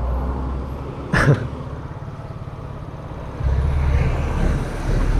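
Motorcycle riding sound picked up by an action-camera mic: steady low engine and wind rumble with traffic, with a short voice sound about a second in, and the rumble getting louder about three and a half seconds in.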